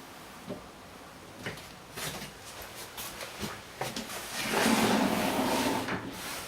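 Several short clicks and knocks, then a louder rumbling rush lasting about a second and a half near the end, like household fittings being handled in a small room.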